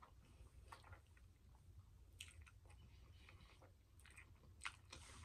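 Faint chewing of a mouthful of spaghetti with meat sauce, picked up close to the microphone: soft, scattered wet mouth clicks, one a little louder near the end.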